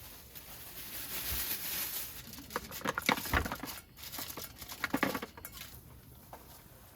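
Aluminium foil being handled and crinkled: a soft rustle, then a run of sharp crackles in the middle.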